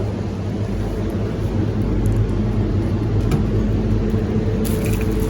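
Steady low engine hum of a running vehicle.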